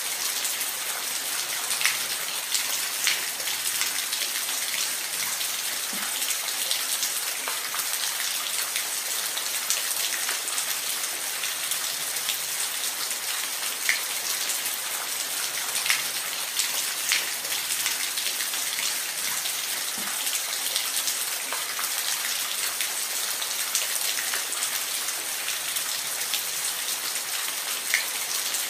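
Steady rain falling on a surface: an even hiss with scattered single drops ticking sharply every few seconds.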